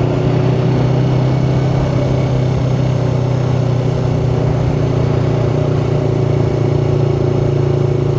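Yamaha R3's parallel-twin engine running under light throttle after an upshift, its pitch rising slightly at first and then holding steady. Heard from the rider's helmet mic.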